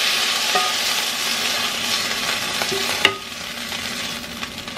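Chicken chunks sizzling in hot olive oil in a frying pan while a spatula slides them onto a plate, with a few light clinks. A sharp knock comes about three seconds in, and after it the sizzling is fainter.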